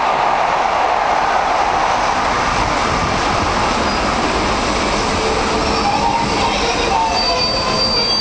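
Class 411/5 '4-CEP' slam-door electric multiple unit running slowly into a station and braking to a stop, a steady rumble with thin brake squeals setting in about six seconds in as it comes to a stand.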